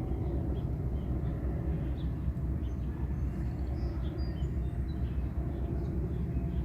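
Single-engine propeller airplane droning steadily overhead, with small birds chirping faintly.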